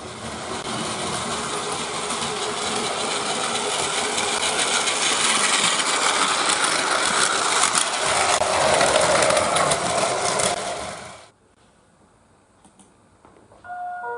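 Battery-powered Plarail toy train running: the small motor and plastic gears whir with rapid fine clicking, then stop abruptly about eleven seconds in.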